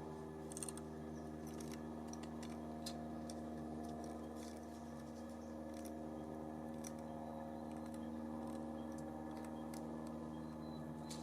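Irregular light clicks and taps of birds pecking and hopping at a seed and suet feeder, over a steady low hum.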